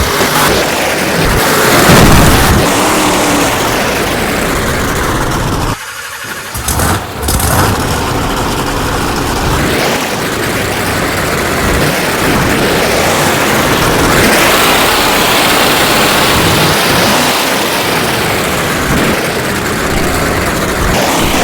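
Monster truck engine running loud and revving, with a sudden drop about six seconds in before it picks up again.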